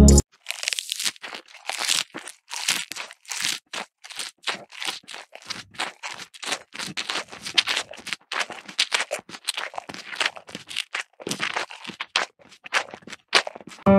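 Munching sound of cows chewing fresh grass: a quick, irregular run of crisp crunches, several a second.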